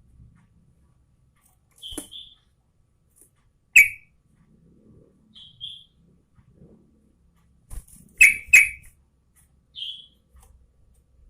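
Yellow-vented bulbul giving short, sharp, scattered call notes. A loud one comes about four seconds in and two in quick succession near eight seconds, with softer paired chirps in between.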